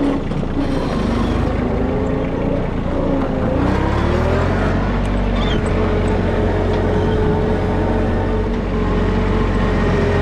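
A vehicle engine running, its pitch rising and falling over the first few seconds, then settling into a steady note.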